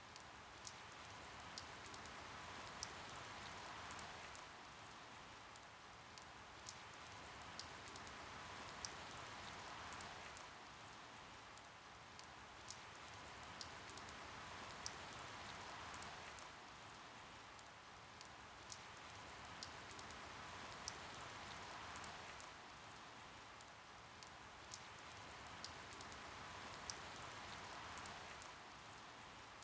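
Steady rainfall with individual drops ticking sharply through it, swelling and easing about every six seconds.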